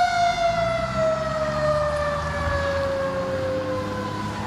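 Fire engine siren, one tone falling slowly and steadily in pitch and growing fainter, over the low rumble of the truck's engine.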